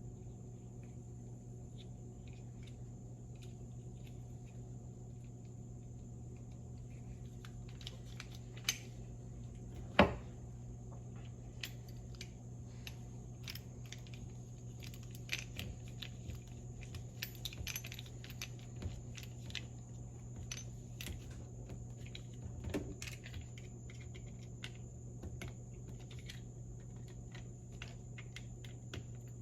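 Small metal parts and hand tools clicking and clinking while a 1978 Ford steering box is worked on, scattered and irregular from about eight seconds in, with one sharper knock a couple of seconds later. A steady low hum runs underneath.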